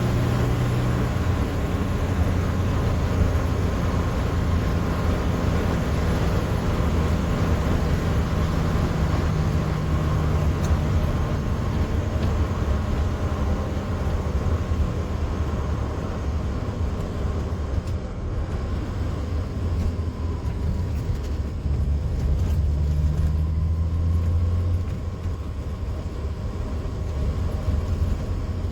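A 1979 TVR Taimar's 3.0-litre Ford Essex V6 running while the car is driven, heard from inside the car over steady road and tyre noise. The engine note rises and falls, and the sound gets quieter about 25 seconds in.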